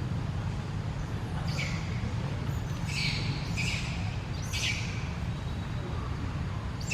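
An animal giving four short, high-pitched squawking calls a second or so apart, each sliding down in pitch, over a steady low rumble.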